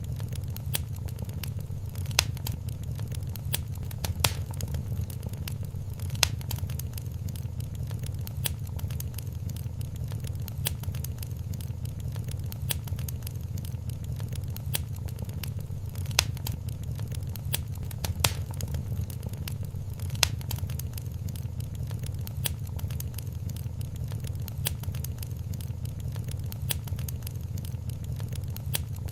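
Wood fire burning in a fireplace: a steady low rumble of flames with constant small crackles and sharp, louder pops every few seconds.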